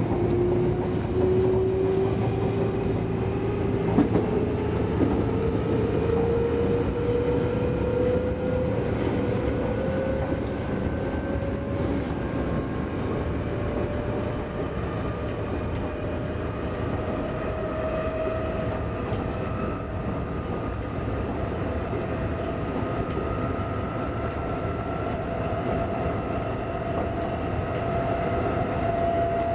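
Nankai 6000 series electric commuter train heard from inside the cab, running along the track with a steady rumble and a motor and gear whine that rises slowly in pitch as the train gathers speed. A couple of short knocks about four seconds in.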